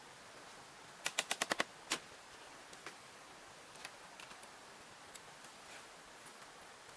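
A quick run of six sharp knocks about a second in, then a single knock, followed by faint scattered ticks.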